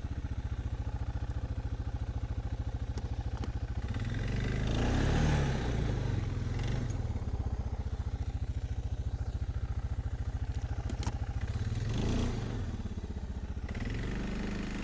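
Off-road vehicle engine running under load as it drives through wet snow on a trail, with the revs surging about five seconds in and again near twelve seconds.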